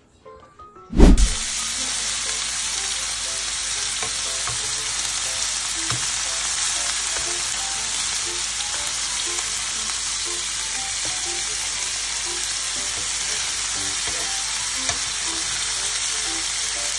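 Pork belly strips and kimchi frying in a pan, a steady loud sizzle that starts abruptly with a thump about a second in, with a few light clicks of metal tongs in the pan.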